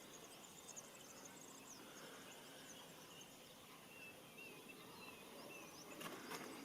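Faint outdoor ambience with distant birds chirping and trilling in high, short notes, and a brief soft rustle about six seconds in.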